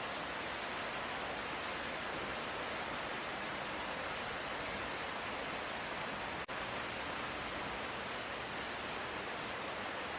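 Steady light rain, an even hiss with no thunder, broken by a brief dropout about six and a half seconds in.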